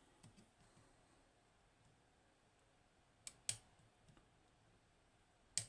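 Lock pick working the T-spool pins of a Hori Trident high-pin-count lock: three sharp clicks, two close together a little past halfway and one near the end, with a few faint ticks between.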